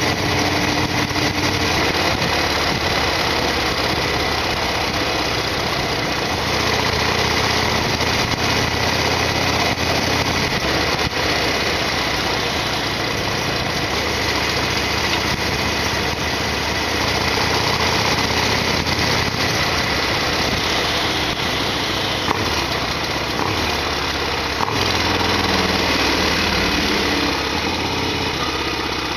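Harley-Davidson Sportster XL1200R's air-cooled V-twin engine running steadily, its note shifting a few times.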